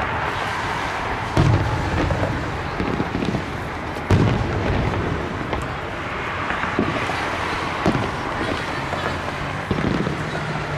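Fireworks going off: several sharp booms, the loudest about a second and a half and four seconds in, over a continuous crackle and rumble of more shells bursting.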